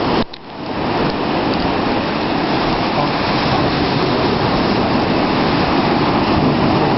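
Steady rushing noise of ocean surf and wind on the microphone, with a brief drop in the sound just after the start.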